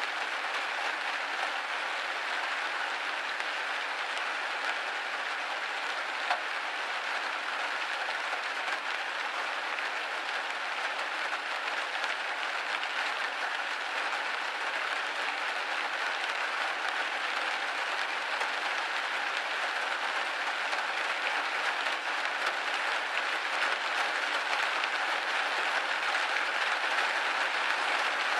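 Steady rain pattering on a window pane, an even hiss of drops with no low rumble, growing slightly heavier near the end.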